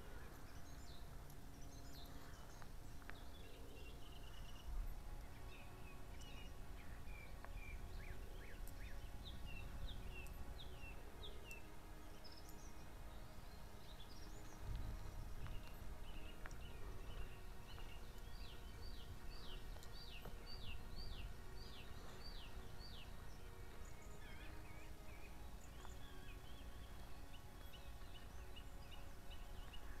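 Wild birds singing: scattered short chirping phrases, and a little past the middle one bird repeats a sharp note about ten times, about two a second. A low rumble runs underneath.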